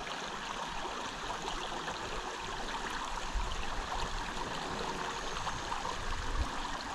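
Small trout creek flowing: a steady rush of moving water.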